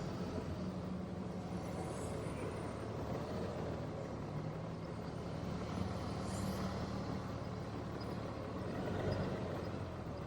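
Honda Gold Wing motorcycle being ridden, its engine running steadily under road and wind noise, the engine note shifting slightly in pitch now and then.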